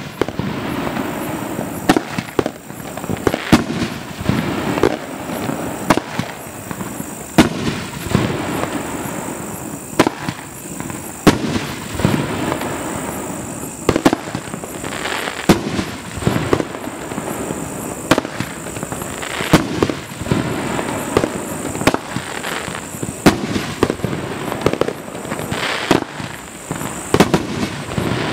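A Dominator Nishiki Crown Kamuro 9-shot consumer fireworks cake firing its shots one after another. Shells launch and burst with sharp bangs every second or two, with a continuous rushing noise between the reports.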